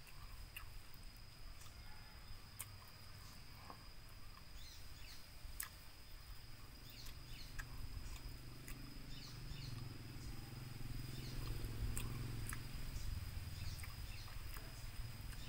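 Faint mukbang eating sounds: scattered mouth clicks and smacks of someone chewing jengkol with sambal, eaten by hand from a stone mortar. Behind them run a steady high-pitched drone and a few small bird chirps.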